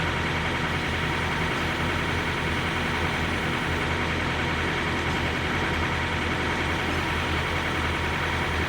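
Truck engine idling: a low, steady hum that does not change.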